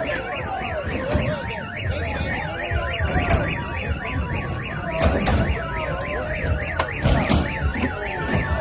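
An electronic siren wailing rapidly up and down, about four to five sweeps a second, over a busy background of voices and low thumps.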